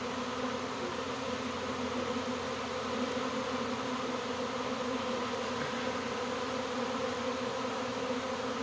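A large swarm of honey bees buzzing steadily as it moves into a hive, a dense, unbroken hum with several steady pitches in it.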